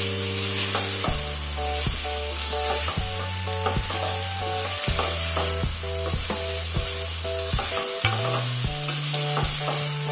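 Eggplant, ground meat and carrots sizzling in a stainless steel pot while a wooden spatula stirs them, scraping and knocking against the pot many times. Background music with held notes plays underneath.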